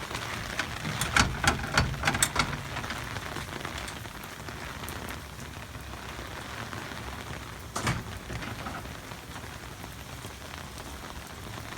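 Heavy rain pouring down in a steady hiss, with a cluster of sharp, loud taps of drops close by between one and two and a half seconds in and one more near eight seconds.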